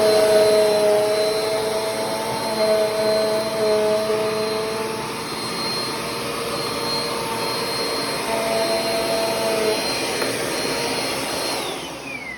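Bissell Cleanview Compact Turbo vacuum running with a steady high motor whine while it picks up dryer vent lint, then switched off near the end, the whine falling as the motor spins down.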